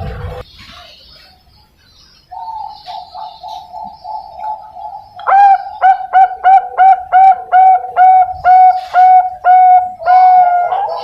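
Young zebra dove (Bangkok perkutut) singing: a soft, rapid run of coos, then about a dozen loud, evenly spaced staccato coos ending in a longer drawn-out note.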